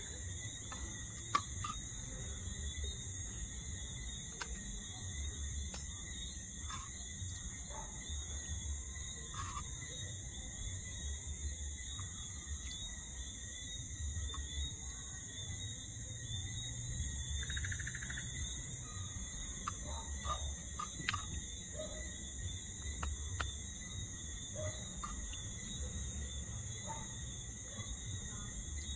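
A steady chorus of night insects such as crickets, with scattered light clicks. Just past the middle, a louder high buzz swells for about two seconds and then cuts off suddenly.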